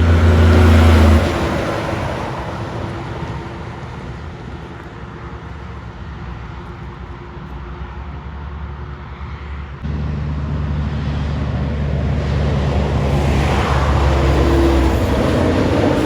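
Heavy trucks' diesel engines and tyres passing on a highway. One truck's low engine hum fades away within the first couple of seconds. About ten seconds in, another truck's engine cuts in suddenly and grows louder as it draws near and goes by.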